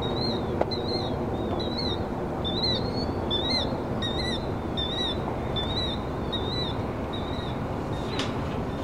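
A bird calling the same short chirp over and over, about two a second, over a steady low background rush. There is a single sharp click near the end.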